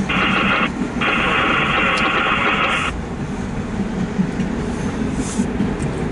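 Empty autorack freight cars rolling past, heard from inside a car: a steady low rumble of wheels on rail with a few light clanks. For about the first three seconds a loud, choppy hiss lies over it, then cuts off suddenly.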